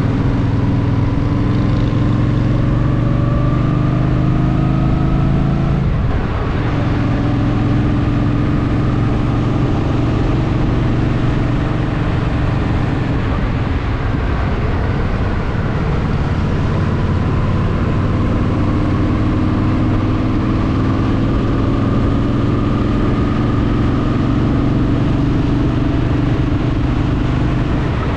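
Honda Shadow VT750's V-twin motorcycle engine running under way, its pitch rising slowly as it pulls. There is a gear change about six seconds in, then steady running, and another slow rise in the second half.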